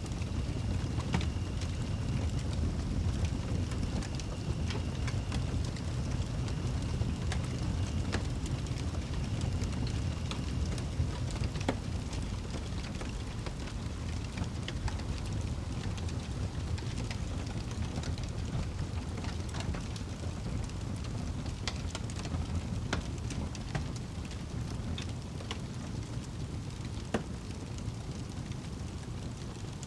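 Fireplace log fire burning: scattered sharp crackles and pops over a steady low rumble.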